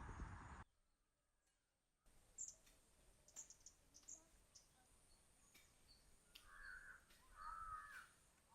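Quiet outdoor ambience with faint, short bird chirps, and a bird giving two harsh, rasping calls near the end. A louder background cuts off abruptly in the first second, leaving a second or so of near silence.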